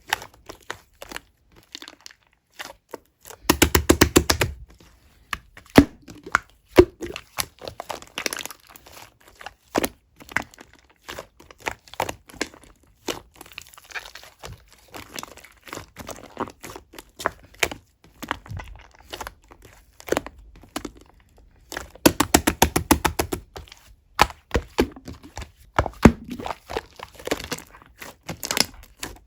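Pink clear slime mixed with shaving foam being squished and pressed by hand, giving sticky crackling and clicking pops of trapped air. Twice, once a few seconds in and again about two-thirds of the way through, it is pressed rapidly, giving a quick run of clicks.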